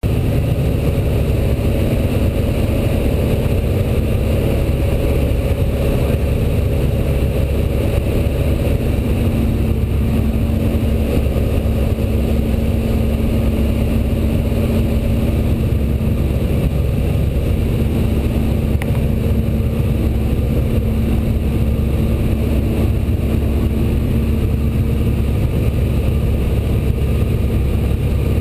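Antonov An-2's nine-cylinder radial piston engine running steadily in a loud, even drone.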